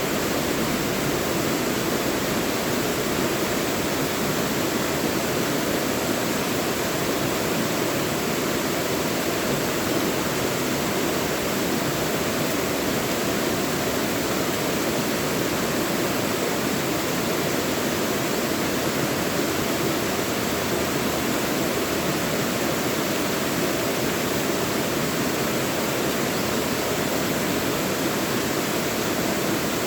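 Mountain valley stream rushing over rocks, a steady, even flow of water.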